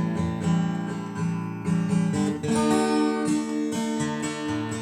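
Instrumental music: chords strummed on an acoustic guitar, changing every second or so, with no singing.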